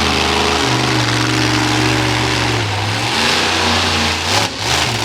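Monster truck engine under hard throttle, holding a high pitch, easing off after a couple of seconds, then blipped up and down sharply near the end.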